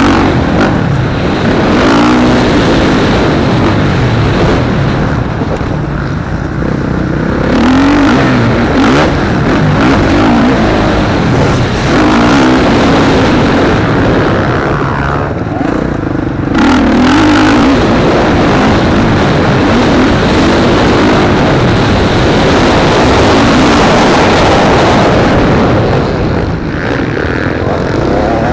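Motocross bikes racing on the track, engines revving up and down as riders accelerate and shift, the pitch rising and falling over and over. The level dips briefly twice, then picks up again.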